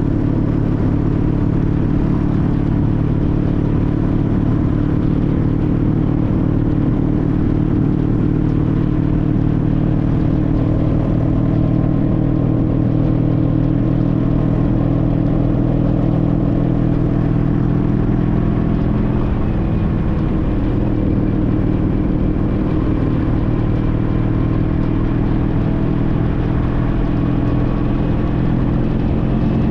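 Engine of a 2014 Honda CTX1300 V4 motorcycle running steadily while riding, heard onboard over a rush of wind and road noise; the engine note dips briefly and picks back up about two-thirds of the way through.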